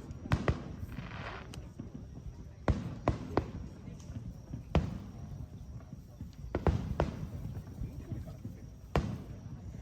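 Fireworks display: a string of sharp bangs from bursting shells at irregular intervals, over a steady low rumble.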